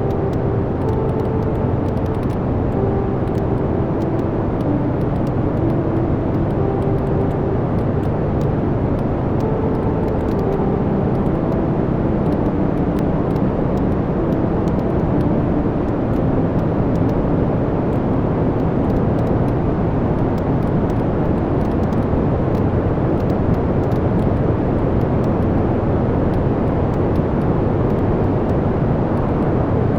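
Wood fire burning in a fireplace: a steady low rush of flames with frequent small crackles and pops of the burning logs.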